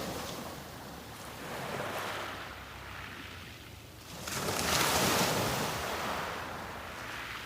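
Sea waves breaking on a beach and washing up the shore: a small wave about two seconds in, then a larger one crashing about four seconds in and hissing away. A low wind rumble on the microphone runs underneath.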